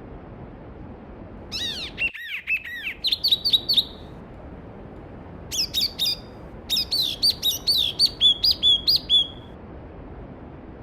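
A songbird sings two phrases of quick, repeated, sweeping whistled notes, one about a second and a half in and another from about five and a half seconds, over the steady rush of a mountain stream.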